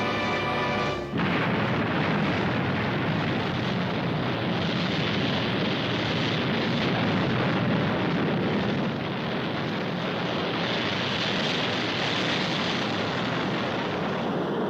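Rocket-engine sound effect of Thunderbird 1 taking off: a loud, steady rush of noise that comes in about a second in as the music cuts off, and holds without a break.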